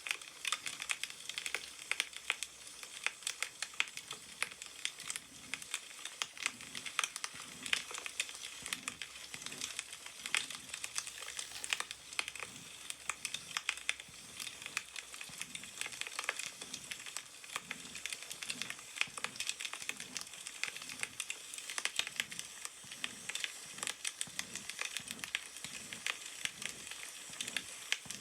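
Wood fire crackling, a dense run of small irregular pops and snaps over a soft steady hiss.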